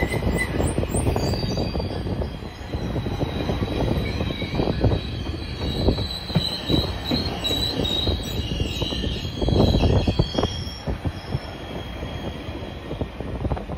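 GO Transit double-deck passenger coaches rolling past along the platform: a steady rumble of wheels on rail with irregular knocks, and a faint high squeal from the wheels.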